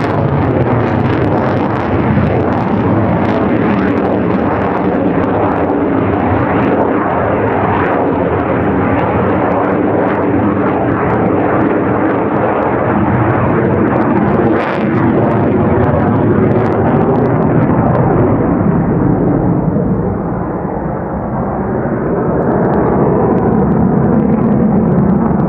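Loud, continuous jet noise of a JASDF F-4EJ Kai Phantom II's J79 turbojets in flight. It dips briefly near the end and its high hiss dulls in the second half as the jet draws away.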